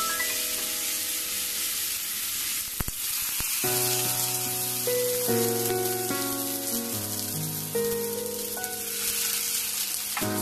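Pork trotters, chicken feet and peanuts sizzling in a hot wok as liquid is added, with two short knocks about three seconds in. Background music with single held notes plays over the sizzle from about four seconds in.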